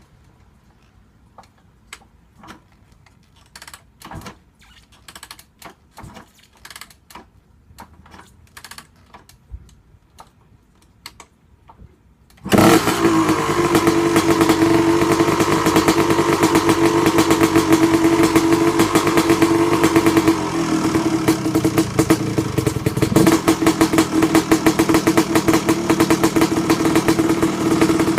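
Yamaha YZ250 two-stroke motocross engine, stone cold, being kicked over with a series of uneven knocks. It catches about twelve seconds in and runs loudly and steadily with a rapid pulsing exhaust note through its FMF Gnarly expansion chamber and Pro Circuit R304 shorty silencer.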